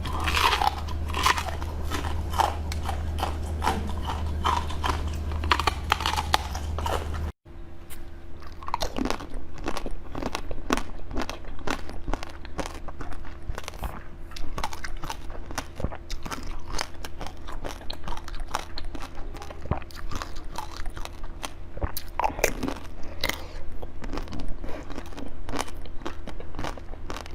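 Close-miked biting and chewing with crisp crunching, many sharp clicks of teeth breaking through food. A low hum sits under the first part; the sound breaks off for an instant about seven seconds in, then the crunching carries on.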